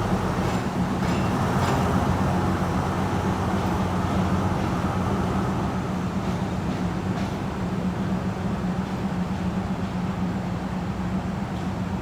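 Diesel train engine running steadily, with a few short metallic knocks, slowly getting quieter.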